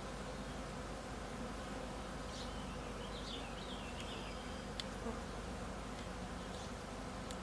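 Honeybees from an open hive buzzing, a steady, even drone with no break. A few faint high chirps sound over it between about two and four seconds in.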